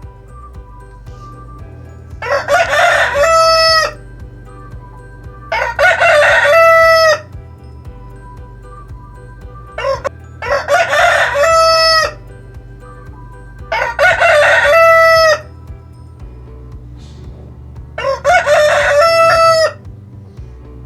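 Rooster crowing five times, each crow about a second and a half long, a few seconds apart.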